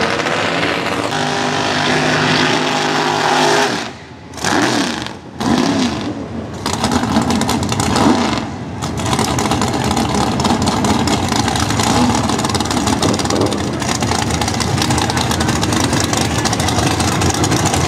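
Drag car engine at high revs. For the first four seconds a car runs down the strip at a steady pitch. After a few abrupt breaks, a supercharged drag car's engine is revved hard through a smoky burnout, loudest about eight seconds in, then keeps running loud as the car rolls up to the line.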